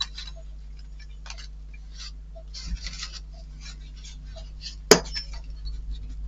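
Small model-kit parts clinking and clicking as they are handled and fitted, with light scattered taps and one sharp click about five seconds in, over a steady low hum.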